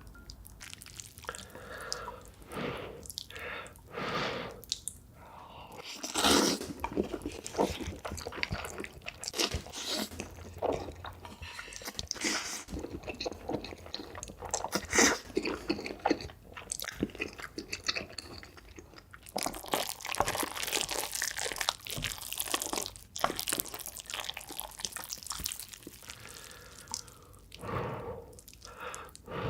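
A person eating close to the microphone: irregular chewing and crunchy bites.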